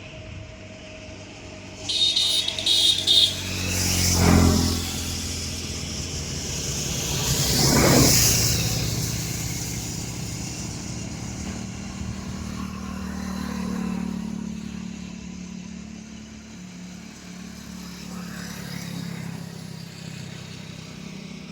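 Motor traffic passing close by: two vehicles go past a few seconds apart, each swelling and fading, with a few short high beeps shortly before the first. A lower engine hum runs on after them.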